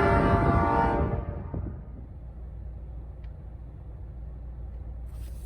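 Locomotive air horn sounding a steady chord over wind noise, cutting off abruptly about a second in. After that there is only a low, steady rumble.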